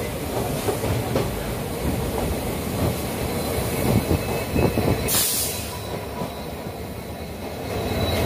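Train running: a steady rumble with irregular clattering knocks of wheels over rail joints, heard through an open window of a moving train. A brief hiss about five seconds in.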